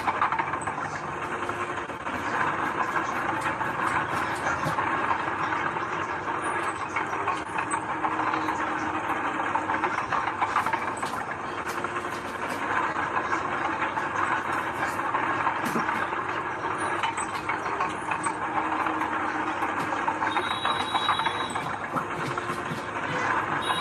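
Heavy earthmoving machinery running, with a steady, dense rattle of metal clanks, as from steel crawler tracks, and a brief high squeal about twenty seconds in.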